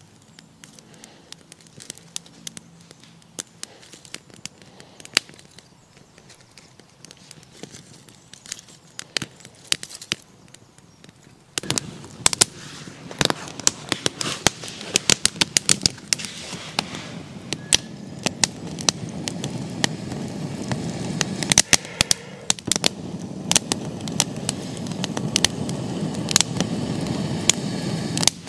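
Sparse crackling, then about twelve seconds in a sudden, steady sizzle with many sharp pops and spits: food frying in a large pan over a wood fire.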